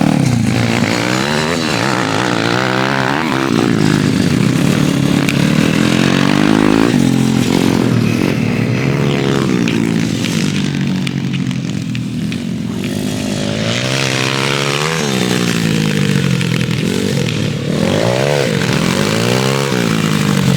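Pit bike engines running hard, their pitch repeatedly climbing and dropping every couple of seconds as the bikes accelerate and back off.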